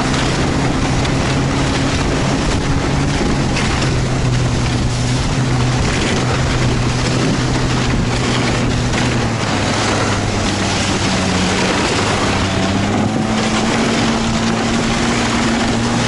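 A motor vehicle's engine running steadily under heavy wind rush. Its pitch dips slightly about nine seconds in and rises again a few seconds later.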